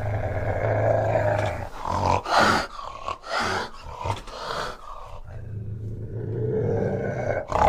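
Fishing cat growling low, broken in the middle by several short, sharp hisses, then growling again.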